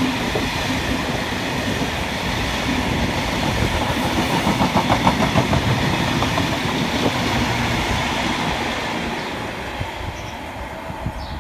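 Long freight train of covered hopper wagons rolling past, steel wheels clattering over the rail joints in quick rhythmic groups over a steady rumble. The sound fades over the last few seconds as the train draws away.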